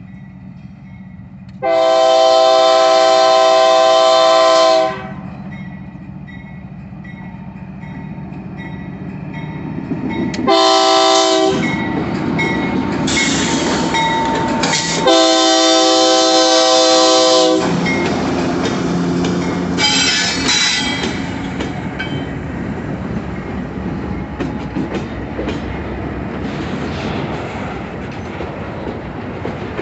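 Locomotive multi-chime air horn sounding a long blast, a short one, another long one and a short one, over the rising rumble of a train with wheels clicking over the rail joints.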